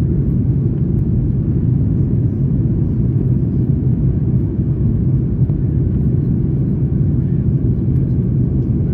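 Steady low rumble of a Boeing 737-9 MAX heard from inside the cabin, the engine and airflow noise of the jet in flight, even and unchanging throughout.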